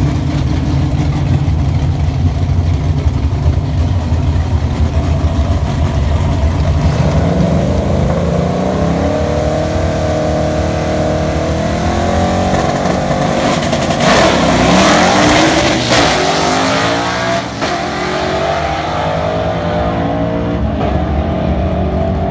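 Drag car engine running steadily, then revving up hard about seven seconds in. The pitch climbs, drops back and climbs again several times as it pulls through the gears.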